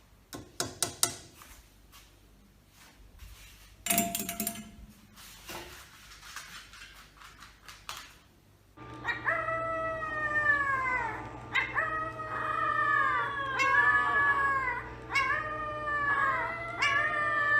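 A few knocks and clatters, then about nine seconds in a dog starts howling: a string of cries that each fall in pitch, roughly one a second, over a steady low hum.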